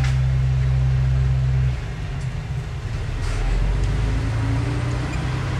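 Diesel engine of heavy earthmoving equipment running with a steady low drone; a little under two seconds in its note changes and turns rougher, then climbs slightly, as with a change in throttle or load.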